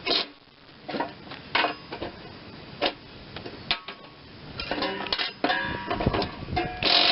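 Metal hand tools clinking and knocking on a mower deck spindle housing as seized bolts are wrenched out, with a run of quick ratchet clicks partway through and a loud harsh grinding burst near the end.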